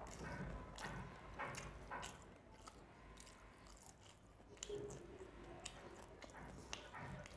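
Close-miked chewing of rice and small fish curry with the mouth open: soft wet smacks, about two a second in the first two seconds, then quieter. Fingers squish and mix rice with curry on a steel plate.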